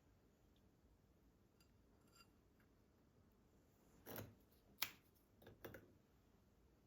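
Near-quiet room tone, broken a little past the middle by a few light clicks and knocks in quick succession, the sharpest one in the middle of the group.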